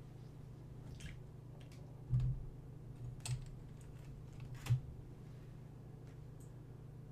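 A few soft knocks and clicks, four or so spread over a few seconds, the knocks at about two, three and almost five seconds in, over a steady low hum.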